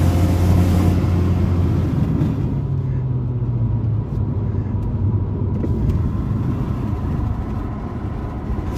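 Car engine and road noise heard from inside the cabin while driving. The engine drones steadily and its pitch drops a little about two to three seconds in as the car eases off.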